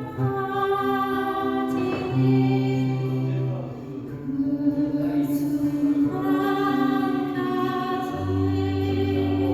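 A woman singing a slow Korean ballad in long held notes over an instrumental accompaniment with sustained bass notes.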